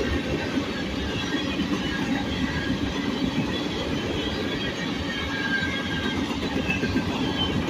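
Train cars rolling steadily past, a continuous rumble and rattle of steel wheels on rail, with brief faint wheel squeals scattered throughout.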